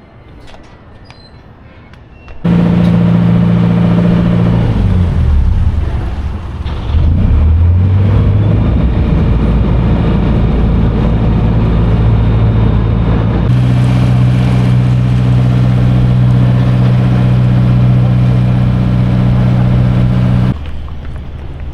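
A large engine running loudly. It starts suddenly, its pitch wavers and slides down for a few seconds, then it holds steady before cutting off suddenly near the end.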